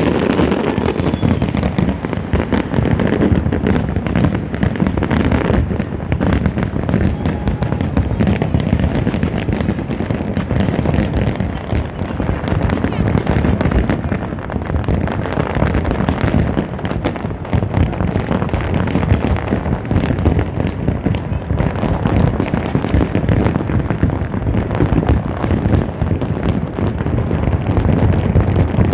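Fireworks display: a continuous barrage of bangs and crackles, many per second, without a break.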